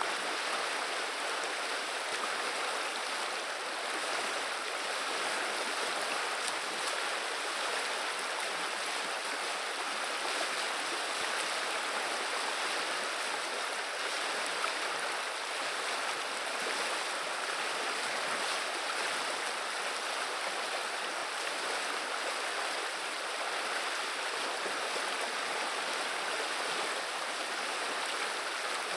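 River water flowing and babbling steadily, an even rushing with nothing else standing out.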